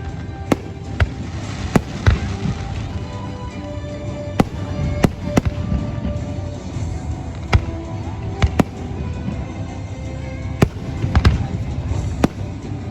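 Fireworks or firecrackers going off: a string of sharp, irregularly spaced bangs, about a dozen in the stretch, over a bed of music with faint held notes.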